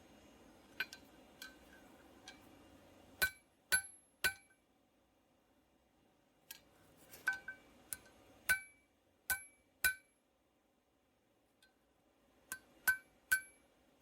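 Hammer blows on steel on an anvil-shaped object, each strike ringing briefly. The blows come irregularly, in small groups with pauses between them.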